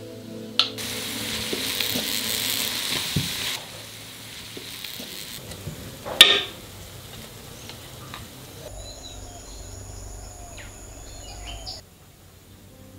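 Chopped tomato dropped into a hot oiled wok, sizzling loudly for about three seconds. A single sharp clatter of crockery follows about six seconds in.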